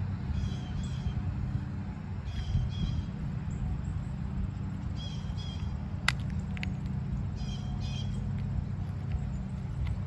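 A bird calling over and over, a pair of short high notes every two to three seconds, over a steady low rumble. A single sharp click comes about six seconds in.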